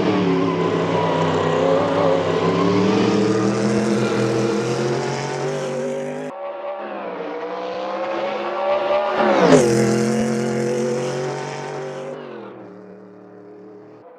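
Mercedes C9 Group C race car's twin-turbo V8 running hard with a steady, many-layered engine note. After an abrupt break about six seconds in, the pitch sweeps sharply down as the car passes close by, at the loudest moment, and the sound then fades away.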